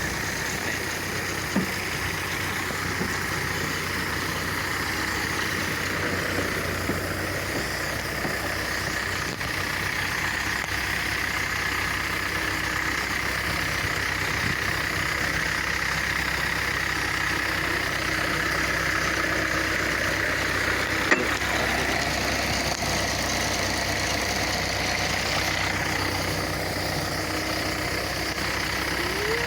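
Kubota engine running steadily, driving a high-pressure spray pump, with one sharp click about two-thirds of the way through.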